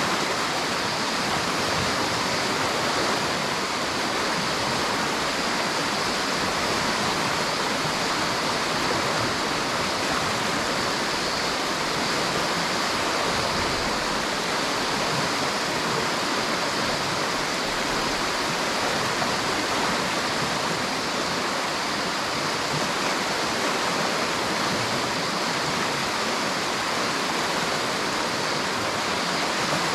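River water flowing with a steady, unbroken rushing.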